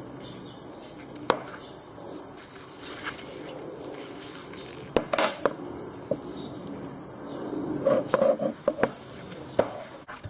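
Scattered light clinks and knocks of hard objects being handled, a few single ones and then a quick cluster near the end, over a rhythmic high-pitched chirping from an insect, about two to three chirps a second.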